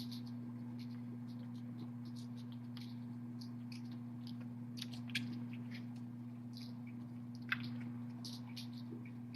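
Steady low electrical hum with scattered small clicks and scratches on top, the sort of sounds kittens make moving about their pen. Two sharper clicks stand out, about five seconds in and near the end.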